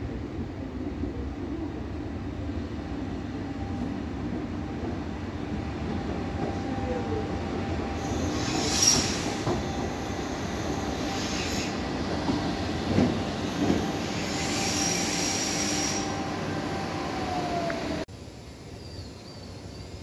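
Electric regional train running into the station and braking: a steady whine under the rumble of the wheels, high brake squeals twice, and a few knocks from the wheels. The whine falls in pitch as the train slows, then the sound cuts off suddenly near the end.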